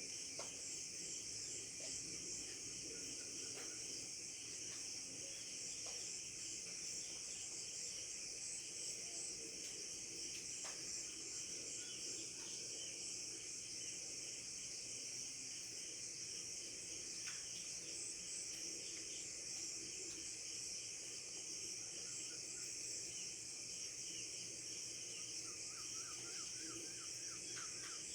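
A steady, high-pitched chorus of insects such as crickets, unbroken throughout. Faint bird chirps come now and then, with a quick run of chirps near the end.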